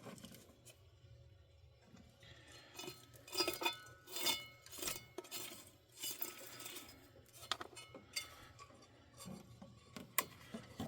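Scattered metallic clinks, knocks and rattles as hand tools and parts are handled on a van's heater blower motor, most of them a few seconds in and a sharp one near the end.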